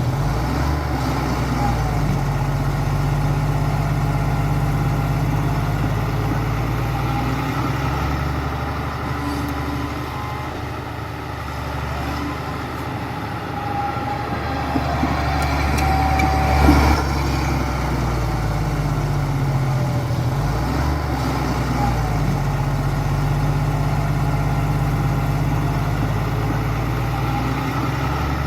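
Heavy diesel engine of construction machinery running, its pitch shifting up and down every few seconds as the load changes. One short clunk sounds about 17 seconds in.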